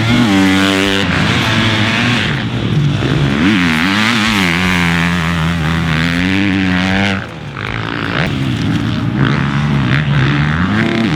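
2021 Husqvarna FC250's 250cc four-stroke single-cylinder engine revving hard as the dirt bike is ridden, its pitch rising and falling over and over with the throttle. The engine drops off briefly about seven seconds in, then picks up again.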